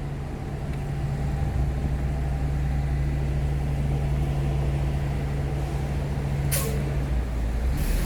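A large road vehicle's engine idles steadily with a low hum. About six and a half seconds in there is a short hiss of air, and right at the end an engine pitch starts to rise as a vehicle pulls away.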